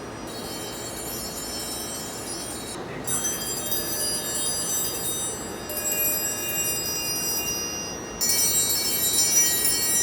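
Electronic chime melody: clusters of steady high tones that change about every two and a half seconds, with a brief break about three seconds in and a louder passage near the end.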